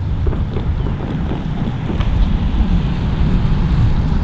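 Wind buffeting the microphone over the steady low rumble of a departing freight train.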